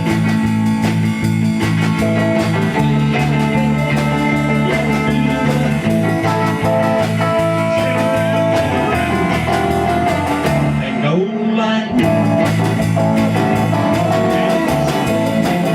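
Rock band playing an instrumental passage led by electric guitar over a steady beat. About eleven seconds in, the band briefly drops out to a thinner sound, then comes back in full.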